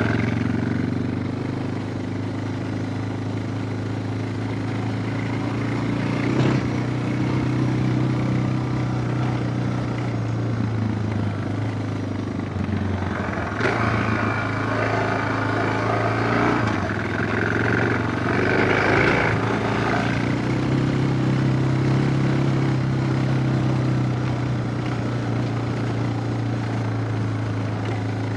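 Suzuki DR650's single-cylinder four-stroke engine running while the motorcycle is ridden, its pitch rising and falling a little. A sharp knock comes about six seconds in and another about halfway through.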